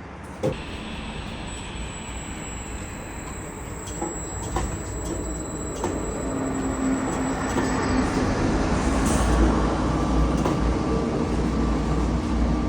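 Crane machinery running while steel reinforcement mesh is unloaded, a steady mechanical rumble that grows louder. A thin high whine runs through the middle, and there are a few sharp metallic knocks, one about half a second in and two more around the middle.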